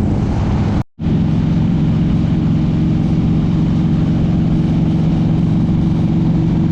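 Harley-Davidson touring motorcycle's V-twin engine running at a steady cruise, with wind and road noise. The sound cuts out completely for a moment about a second in.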